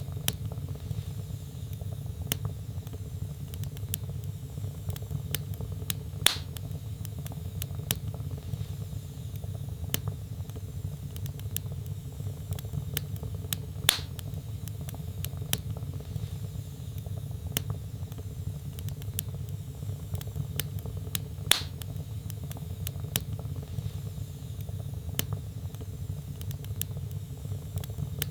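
Wood fire burning in a fireplace: a steady low rumble of flames with many small sharp crackles, and a louder pop about every seven or eight seconds.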